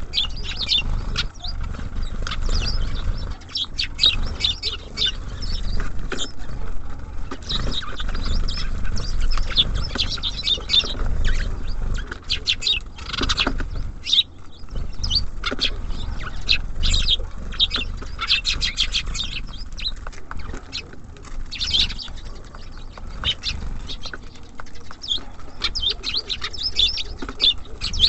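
Small songbirds at a feeder, chirping in short bursts, with many quick ticks and taps scattered throughout.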